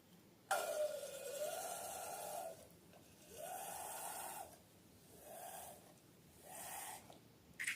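Balloon being emptied through its neck in four spurts of rushing air, each shorter than the one before.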